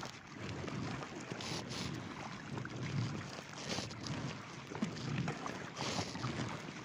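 Kayak paddle strokes on flat water: the blades dip and splash every second or two, with water dripping and trickling along an inflatable kayak.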